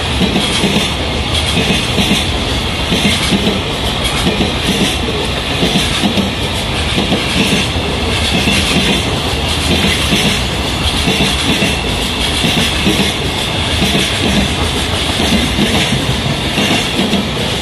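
Freight train's container wagons rolling past at speed, their wheels clacking over rail joints in a steady repeating rhythm with a running rumble and hiss of wheels on rail.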